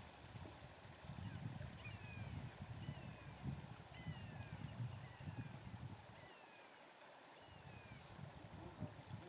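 A bird calling in a series of short, downslurred whistles, several a second apart, from about two seconds in until near the end, over a faint low rumble.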